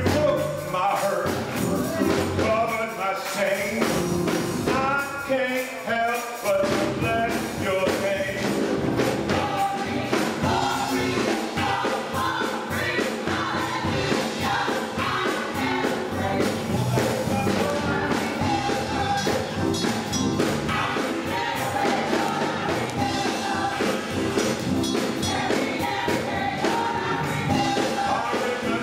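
Gospel choir singing with a full band accompaniment, the voices holding long notes over a steady beat.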